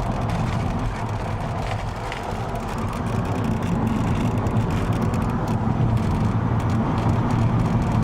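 Car engine and tyre noise while driving along a road, a steady low drone that grows a little louder about three seconds in.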